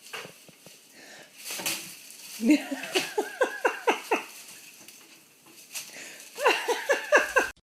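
A pet animal calling in two quick runs of short cries that fall in pitch, about five a second. The sound cuts off suddenly near the end.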